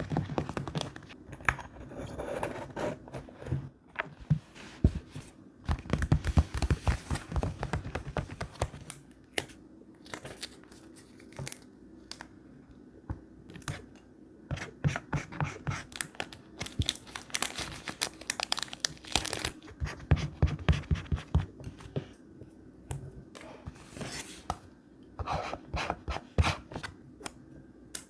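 Thick paper being torn and crinkled by hand, in irregular bursts of crackling and rustling with short pauses between them.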